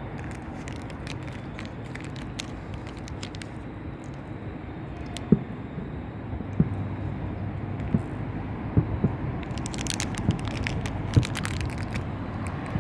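Fireworks going off at a distance: sharp bangs of shells bursting at irregular intervals, with clusters of fast crackling from crackle effects, over a steady low background rumble.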